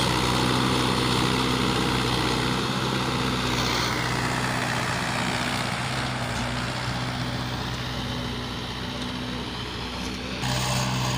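Tractor diesel engine running steadily, its level easing a little and then stepping up again about ten seconds in.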